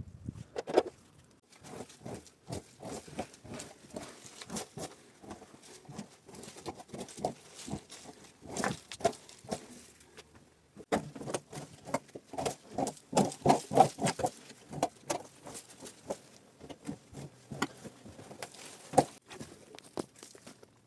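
A long run of irregular short knocks, taps and scrapes, thickest in a rapid cluster about halfway through.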